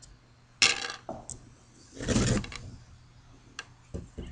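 Knocks and clatter of hard objects being handled: a sharp knock under a second in, a longer rattling scrape about two seconds in, then a few light clicks near the end.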